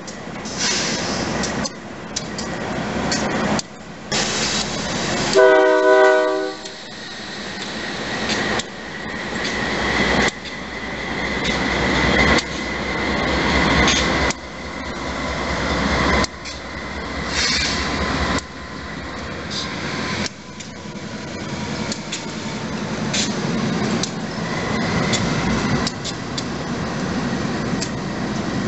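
Union Pacific diesel freight train passing close by, with engine rumble and clattering wheels on the rails. About five seconds in, a locomotive horn sounds one blast of a chord lasting about a second.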